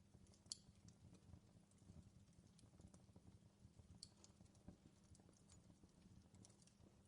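Faint crackling of a wood fire in a fireplace: scattered pops and snaps over a low rumble, the sharpest snap about half a second in and another about four seconds in.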